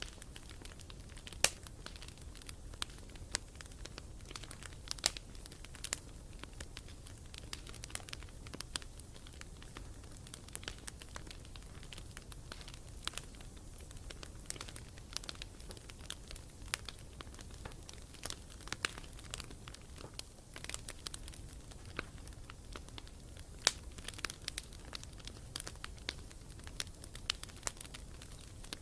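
Wood campfire crackling: irregular sharp pops and snaps, several a second, over a faint low rumble.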